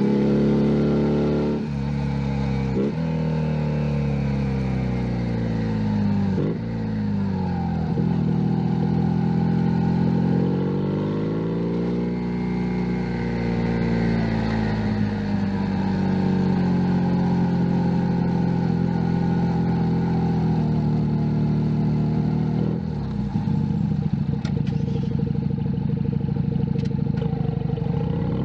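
Junak M11 Cafe's 125 cc single-cylinder engine under way. Its pitch climbs and drops back sharply with a few quick gear changes in the first seconds, then eases off, rises again and holds steady at cruise. It dips as the throttle closes near the end and starts climbing again at the very end.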